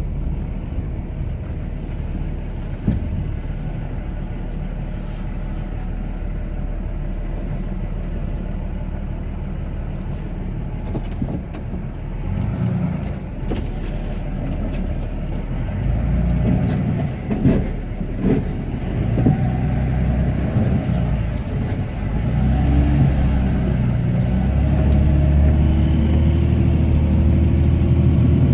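Cummins diesel engine of a Ram pickup running under load while plowing snow, heard from inside the cab, with a few knocks and bumps. About 22 seconds in the engine gets louder and a drone rises slowly in pitch.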